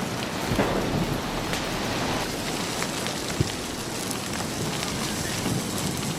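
Storm noise: heavy rain with a low rumble in the first second and a half, scattered small cracks, and a sharp crack about three and a half seconds in.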